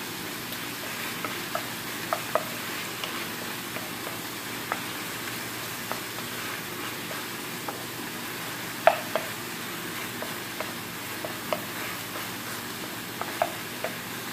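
Sliced mushrooms, onion and garlic sizzling in a frying pan while a wooden spatula stirs them, tapping against the pan at irregular moments; the loudest tap comes about nine seconds in.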